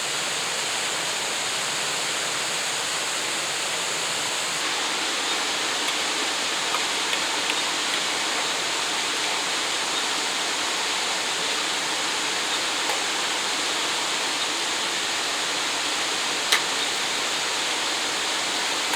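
Waterfall rushing steadily, its water noise even and unbroken. A single sharp click sounds near the end.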